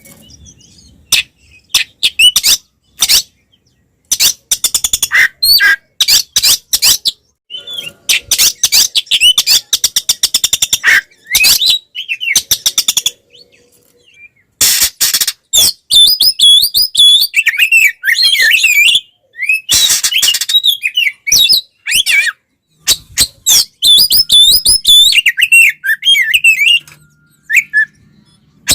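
Oriental magpie-robin (kacer) singing loudly in aggressive fighting song: bursts of harsh, rapid rattling notes alternate with runs of sharp, looping whistles, broken by short pauses.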